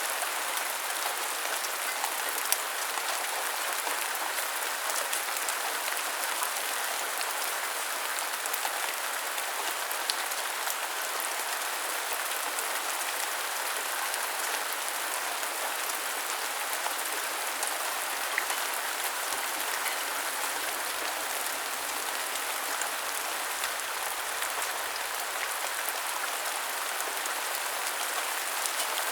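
Steady rain falling, an even hiss of many drops with now and then a sharper single drip.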